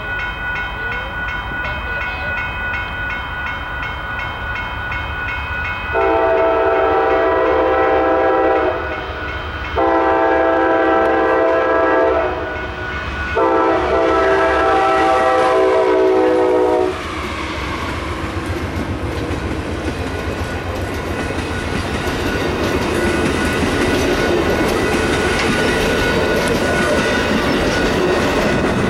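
A grade-crossing bell dings steadily while an approaching Amtrak GE P42 diesel locomotive sounds its air horn in three long chord blasts, the third the longest. The train then rolls past close by, its wheels clattering over the rail joints, and the noise of the double-deck Superliner cars builds toward the end.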